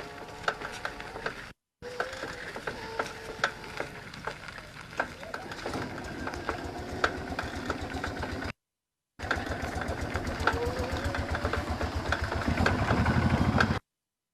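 Rapid mechanical clicking with a fast, rhythmic low pulsing that grows louder near the end, broken by two brief edit gaps.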